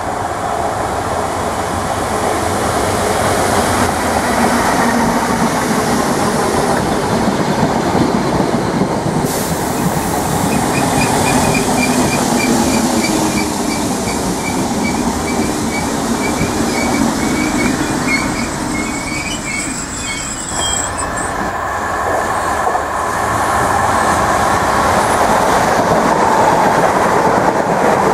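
Electric multiple-unit passenger trains, among them a Class 377, running past close by with a continuous rumble of wheels on rail. A series of high ticks and a short high-pitched squeal come around the middle.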